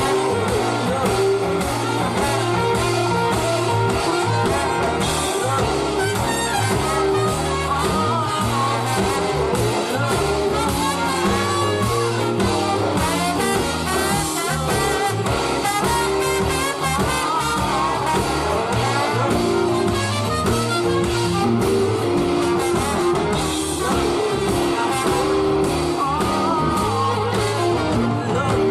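Live band playing a soulful jazz-blues groove with guitar and horns, with a young girl's singing voice in places.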